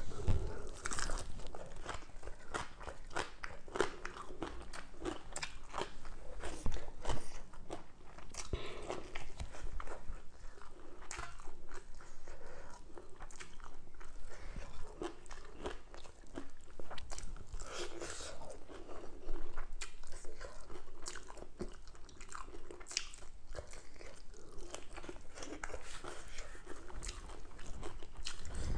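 Close-up chewing and crunching of crisp food, lettuce-wrapped green papaya salad and fried fish eaten by hand, with a steady run of irregular wet crackles and crunches.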